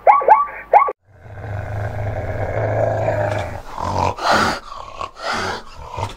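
A fishing cat growling low for about two seconds, then giving three louder, harsh bursts. Before it, a second-long run of quick, falling animal calls breaks off abruptly.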